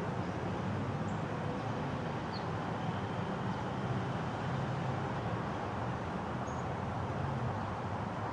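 Steady low rumble of distant road traffic, with a few faint short high chirps scattered through it.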